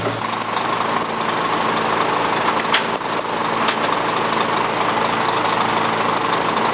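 Heavy diesel truck engine idling with a steady low hum, a few light clicks over it.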